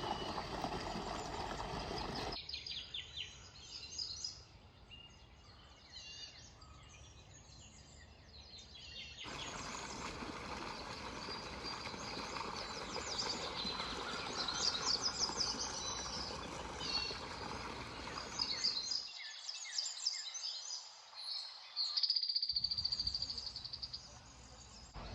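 Small birds chirping and twittering over steady outdoor background noise. The background changes abruptly several times, with one quieter stretch about 2 to 9 seconds in.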